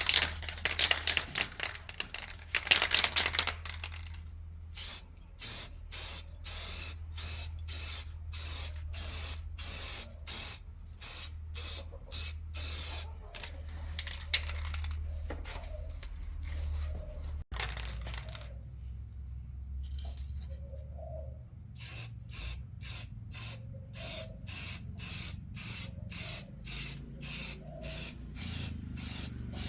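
Paint spraying in many short bursts of hiss, about two a second, over a steady low hum; the bursts stop briefly after about 17 seconds, then resume.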